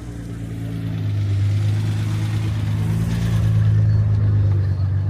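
Car engine running steadily, a low even drone that grows a little louder over the first second.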